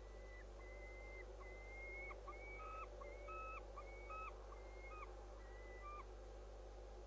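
A bird giving a series of about nine faint, clear whistled notes, each held at a level pitch and some ending with a quick step up.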